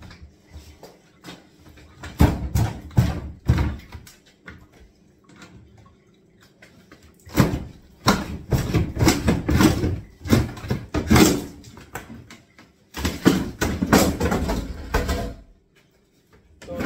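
Knocking and clattering of wooden kitchen units and cupboard doors being pulled out and broken up, in three bursts, the longest lasting about four seconds.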